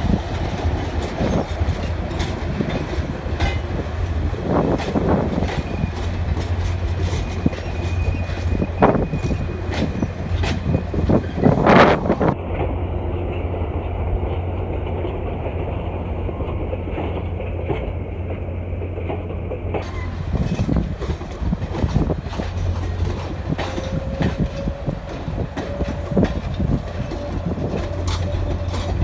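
Grand Canyon Railway excursion train rolling past as it leaves the station. The steady rumble of the passenger cars is broken by frequent clicks of the wheels over the rail joints, with a louder swell about twelve seconds in.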